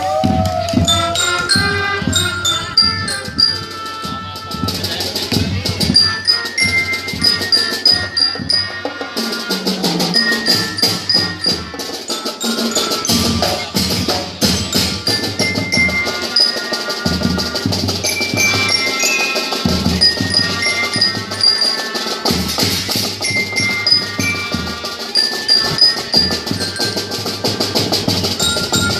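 Marching band playing, with drums striking steadily under the winds and mallet percussion such as glockenspiel ringing short, high notes over the melody.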